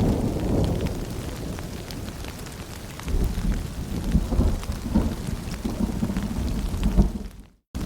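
Rain and dripping water with a low rolling rumble of distant thunder, the rumble fading in the first second and swelling again about three seconds in. The sound cuts out completely for a moment just before the end.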